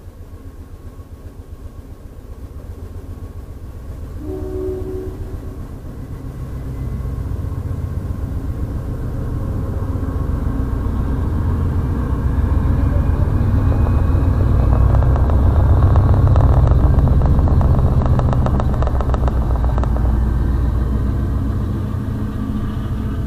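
Amtrak Downeaster passenger train pulling out and running past, a low rumble that builds to its loudest about two-thirds of the way through, with rapid clacking of wheels in the middle of that peak, then easing as the last cars clear.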